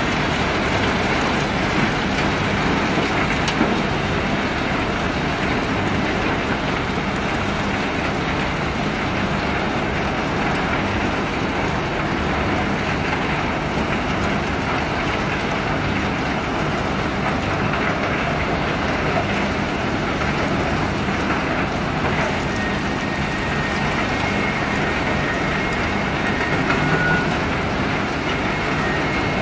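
A self-unloading ship discharging a load of pebbles: a steady, unbroken mechanical rumble mixed with the rattle of the stones.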